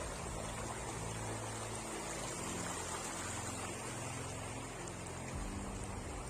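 Steady rushing noise, like running water, over low held notes that shift about five and a half seconds in.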